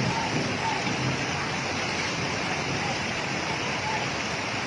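Floodwater rushing steadily, with faint voices in about the first second.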